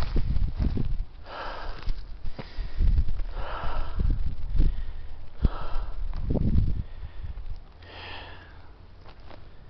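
A tired hiker's heavy breathing, one loud breath about every two seconds, over footsteps and low thumps on the microphone. It grows quieter after about seven seconds.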